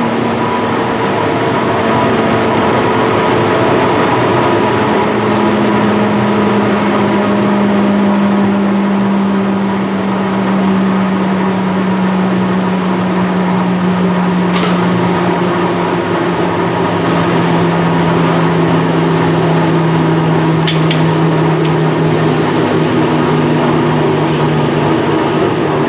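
Luke & Spencer 24-inch duplex high-speed grinder, 10 horsepower motor with twin dust-extraction fans, spinning down: a loud, steady whirring hum that slowly drops in pitch as the heavy wheels coast down. A few faint ticks come over it.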